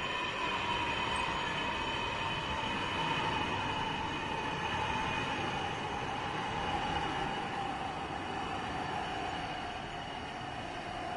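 Distant passenger jet coming in to land: a steady rushing noise with high engine whines, one of them slowly falling in pitch, easing slightly near the end.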